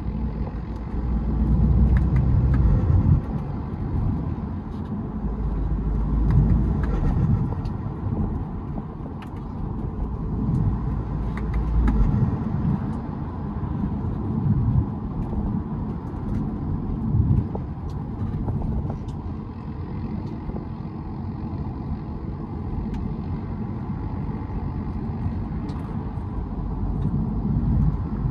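BMW 320d's four-cylinder turbodiesel engine under way with a K&N cold air intake, its sound swelling and easing as the car accelerates and lifts off. A deep low rumble is strongest during roughly the first twelve seconds.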